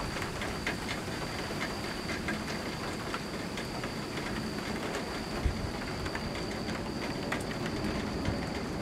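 Steady rain during a thunderstorm, with scattered drips ticking and a brief low thump about five and a half seconds in.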